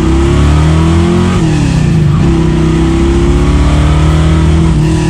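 Heard from inside the cabin: a 1964 Chevy II Nova's 430-horsepower V8 pulling hard under acceleration. The engine note climbs, drops sharply about a second and a half in as the five-speed gearbox shifts up, then climbs steadily again.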